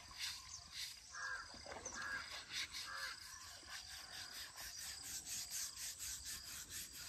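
A bird calling three short times in quick succession, a little over a second in, over faint, rapid, high chirping or ticking.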